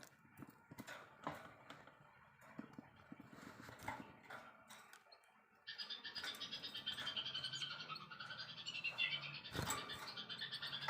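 Faint scattered ticks and clicks, then, a little past halfway, a bird's rapid, dense chattering trill starts abruptly and keeps going.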